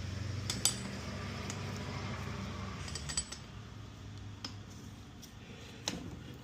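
Metal hand tools clinking: a few sharp clicks and clinks, spaced irregularly, as sockets are handled and fitted onto a fastener.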